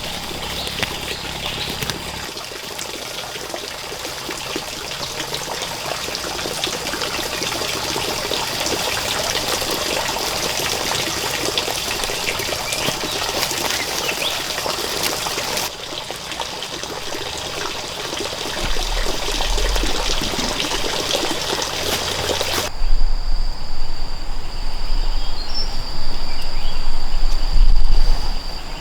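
Running water trickling, heard as a steady rushing hiss. Near the end the sound cuts to a steady high insect drone with loud low rumbles underneath.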